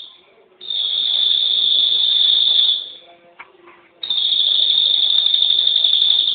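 A songbird's long, steady, high-pitched trill, repeated with short pauses: one call starts about half a second in and lasts about two seconds, and the next starts about four seconds in.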